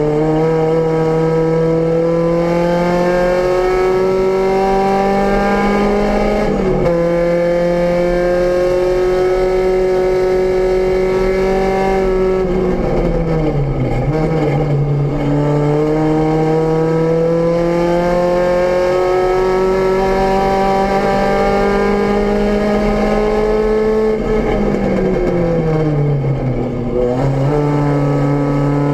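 VW Rabbit GTI race car's four-cylinder engine heard from inside the cabin, pulling hard under acceleration with its pitch climbing. The pitch drops sharply on an upshift about a fifth of the way in. It sinks twice more, about halfway and near the end, as the car slows for corners, then climbs again as it accelerates out.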